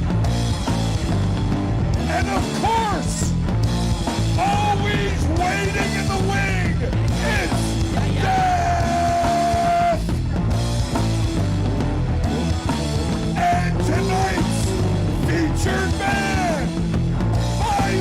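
Loud rock music with a full band and a voice singing and yelling over it; one long held vocal note about halfway through.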